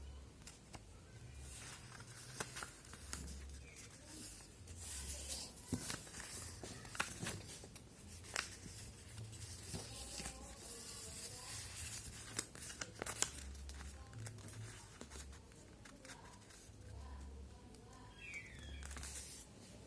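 Sheet of paper being handled and folded by hand: irregular rustling and crinkling with sharp crackles as folds are pressed.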